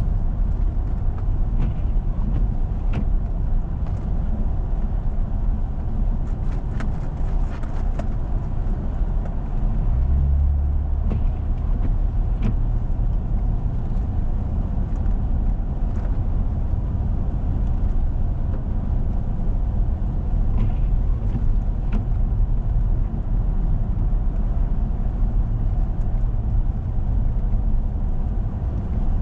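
Steady low rumble of a four-wheel-drive vehicle driving on a snowy road, its engine and tyres running evenly, with a few light ticks now and then.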